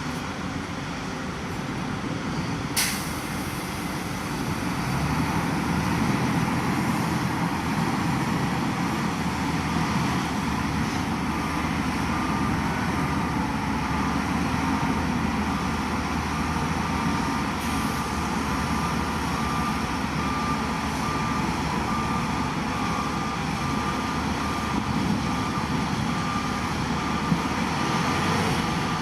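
Heavy diesel machinery running steadily, getting louder about five seconds in, with a brief sharp hiss about three seconds in. From about twelve seconds on a reversing alarm beeps at an even pace.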